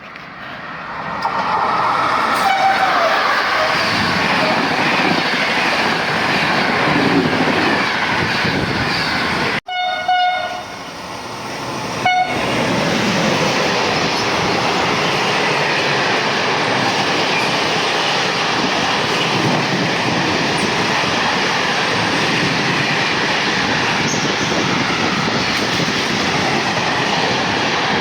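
A train passing close by with a steady loud rush of wheels on rails. Its horn sounds briefly about two seconds in, and again around ten and twelve seconds in.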